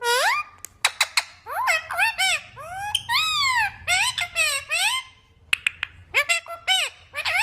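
Green parrot calling in a rapid run of shrill squeaks and squawks that sweep up and down in pitch, mixed with sharp clicks.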